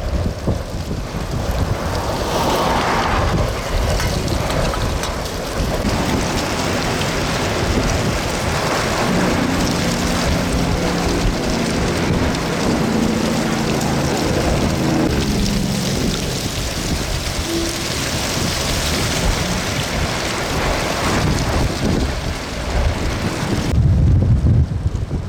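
Dust-storm winds near 60 mph buffeting the microphone in a loud, continuous rush with gusts. A steady low drone with several pitches runs through it for several seconds around the middle.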